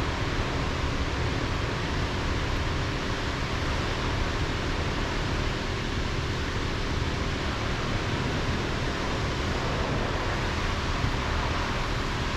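Steady, even rushing noise with a low rumble underneath, unchanging throughout, with no distinct clicks or knocks.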